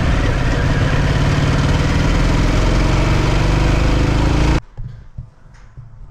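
Harley-Davidson motorcycle running at road speed, a steady loud engine rumble under a hiss of wind noise. It cuts off abruptly about four and a half seconds in, leaving a much quieter background with a few light clicks.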